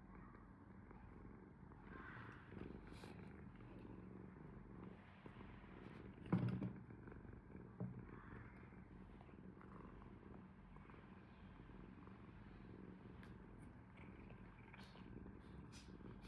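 Domestic cat purring steadily and softly, with a brief louder sound about six seconds in and a smaller one about a second and a half later.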